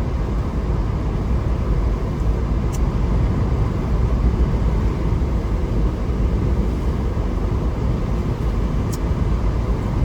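Steady rumble of a vehicle driving, engine and tyre noise heard from inside the cabin, with two faint ticks about three seconds in and near the end.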